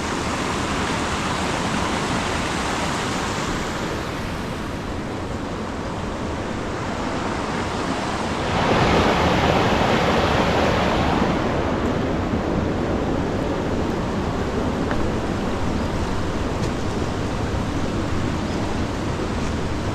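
Linville River water rushing, a steady wash of noise that swells louder for about three seconds near the middle.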